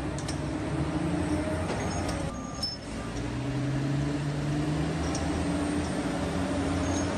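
Heavy vehicle engine running steadily, with a short drop in level about two and a half seconds in and a slowly rising engine tone after it.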